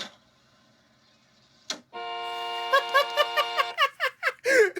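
A car horn blares steadily for about two seconds. Short bursts of a man's laughter break in over it, running on after the horn cuts off.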